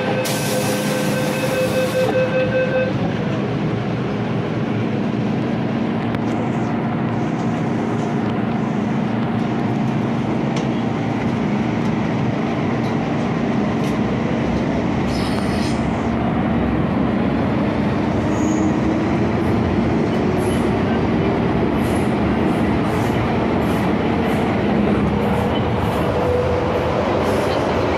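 MTR M-Train electric multiple unit running, heard from inside the carriage: a steady rumble of wheels and running gear under a low steady hum. A brief high tone sounds in the first few seconds, and a whine rises slowly in pitch through the second half.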